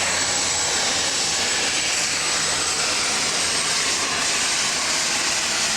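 Turbocharged diesel engine of a super stock pulling tractor running steadily, a loud hissing roar over a low drone.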